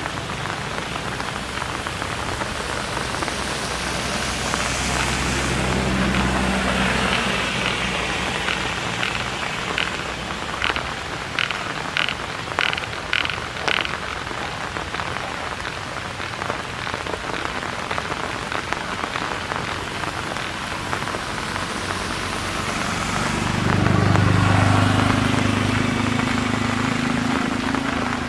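Steady rain falling, an even hiss. About ten seconds in comes a quick run of seven or so short, sharp clicks over a few seconds, and a low rumble sits under the rain at the start and again near the end.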